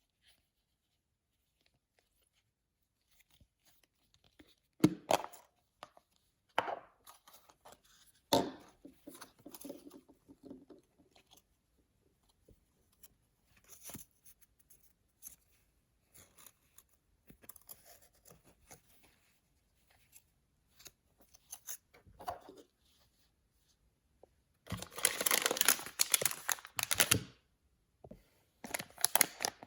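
Paper blind-bag packaging being handled and torn open: a few sharp crackling snaps, soft scattered rustling, then a loud stretch of paper tearing and crinkling about 25 seconds in, which starts again near the end.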